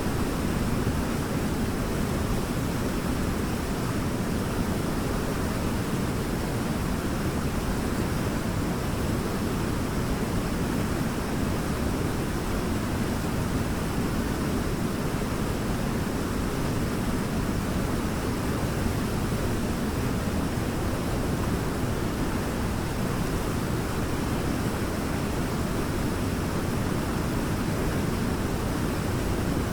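Waterfall rushing steadily, a constant deep roar of falling water with no change through the stretch.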